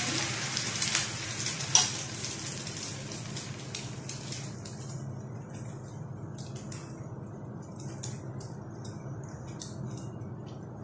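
Egg-soaked bread slice frying in a little oil in a pan: a loud sizzle as it goes in, dying down over a few seconds into light crackling and popping. A sharp click sounds about two seconds in.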